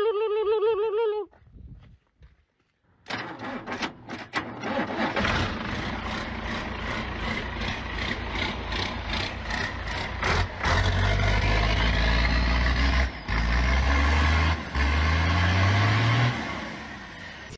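A heavy engine running, with scattered clicks at first, then a deep rumble from about eleven seconds in that rises in pitch near the end as it revs, before fading. It opens with a brief wavering, wailing cry.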